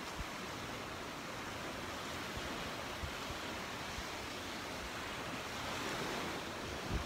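Surf washing onto a beach, a steady rushing that swells a little about three quarters through, with wind knocking on the microphone in a few low thumps near the end.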